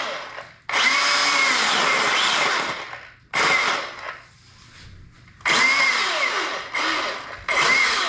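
Handheld power drill running in repeated bursts of one to two seconds, five in all, its motor whine sagging and recovering in pitch as it bites into the work.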